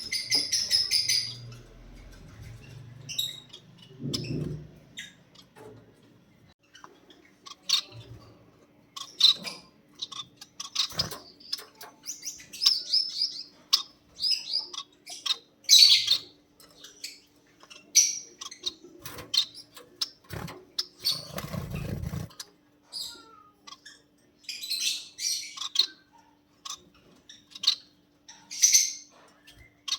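Pet lovebirds chirping, with short, high calls coming irregularly, a few at a time, mixed with sharp clicks. There are two dull low thumps, one a few seconds in and one about two-thirds of the way through.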